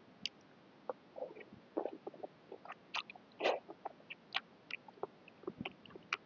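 Close-up eating sounds of a person chewing a mouthful of boat noodles with stewed pork: irregular wet mouth clicks and smacks, the loudest about halfway through.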